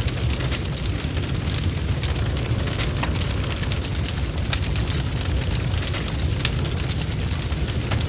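Wood fire crackling: a steady low rumble of flames with frequent, irregular sharp pops and snaps.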